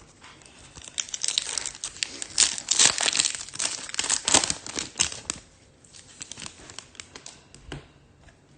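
Foil wrapper of a Topps Chrome trading-card pack being torn open and crinkled for about four seconds, followed by a few light clicks and rustles as the cards are handled.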